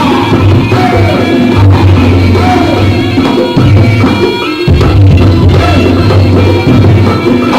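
Loud live jaranan music (gending jaranan) from an East Javanese gamelan-style ensemble. Drums and a heavy pulsing bass sit under ringing tuned metal percussion, with a gliding melodic line over the top.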